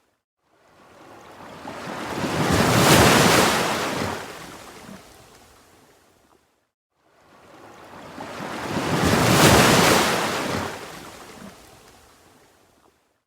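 Ocean waves washing in and drawing back: two waves, each swelling to a peak (about three and nine seconds in) and fading away, with a brief hush between them.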